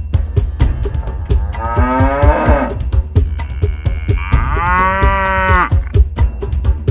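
Battery-operated toy cow playing an electronic moo sound twice, each call long and drawn out, over a steady rapid clicking.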